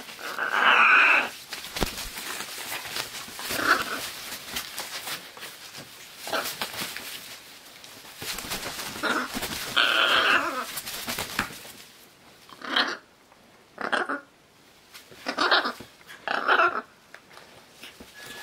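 Scarlet macaws squawking: harsh, raspy calls, two longer ones and then four short separate squawks near the end, with light clicking in between.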